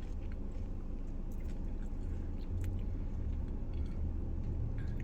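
A person chewing a bite of fried peach mango pie, with faint soft clicks of mouth and wrapper sounds, over the steady low hum of a car's idling engine and air conditioning.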